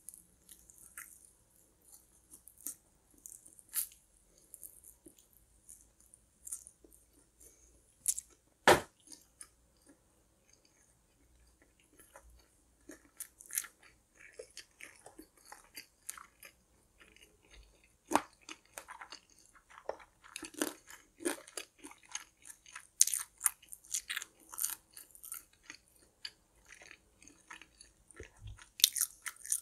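Close-miked chewing and crunching of crispy fried food, irregular bites and crunches that grow busier in the second half, with one much louder crack about nine seconds in.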